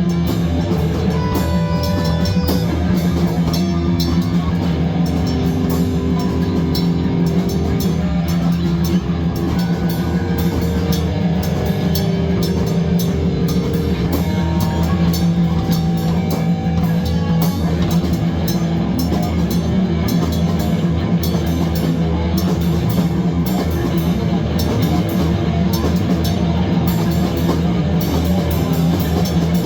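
Loud rock music: a drum kit played with held, pitched instrument notes over it.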